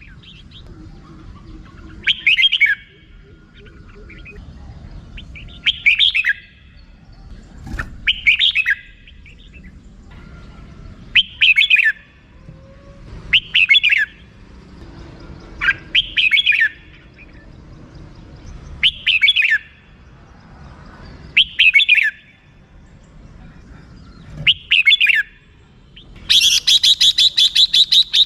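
Red-whiskered bulbul calling: short bright phrases repeated every two to three seconds, then near the end a quick, even run of 'rik-rik-rik' notes lasting about two seconds.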